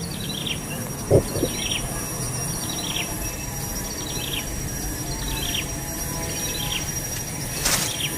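A bird calling with short, falling chirps repeated about once a second, over a steady high insect whine. A single knock about a second in.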